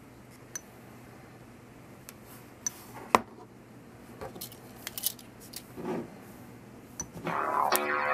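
Scattered small clicks and light knocks, then about seven seconds in a song starts playing through a Sony Xperia Z2 phone's loudspeaker.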